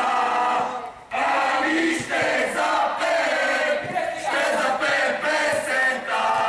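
A group of people chanting and shouting together loudly, with a brief pause about a second in.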